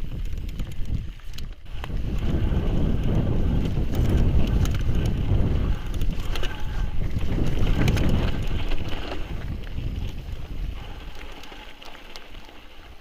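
Mountain bike riding down a rocky trail: wind buffeting the microphone over the rumble of tyres on the ground, with scattered clicks and rattles from the bike. It fades over the last few seconds as the bike slows.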